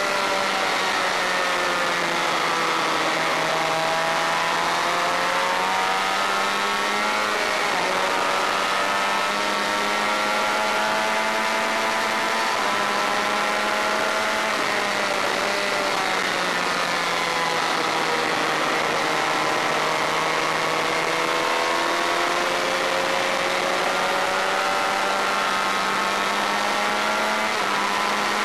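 Honda VFR400 V4 race engine heard onboard, its revs sinking and climbing over several seconds at a time as the bike brakes and accelerates, with a few sudden jumps in pitch at gear changes.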